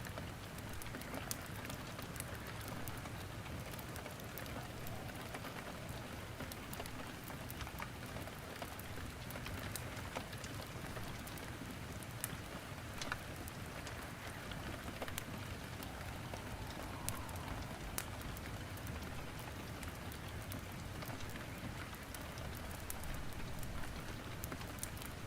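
Steady rain with the scattered sharp pops and crackles of wood burning in a fireplace.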